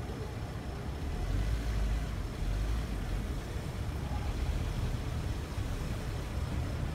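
Car engine running at low speed during parallel parking, a steady low rumble that gets a little louder about a second in.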